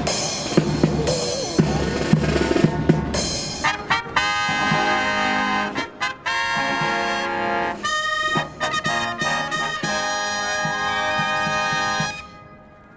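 Brass band playing a fanfare: drums for the first few seconds, then trumpets and trombones in held chords with short breaks between phrases, ending on a long final chord that stops about a second before the end. Strong wind rumbles on the microphone.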